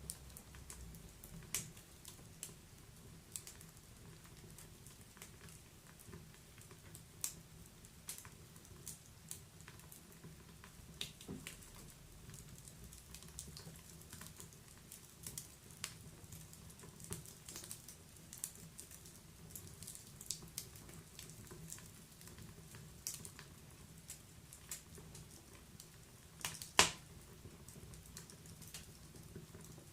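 Wood fire crackling in a fireplace: scattered sharp pops and snaps at irregular intervals over a low steady background, with one louder pop near the end.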